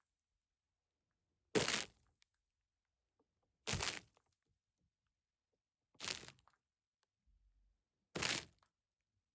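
Four short, crisp crackling sounds at an even pace, about two seconds apart, each lasting under half a second, with silence between them.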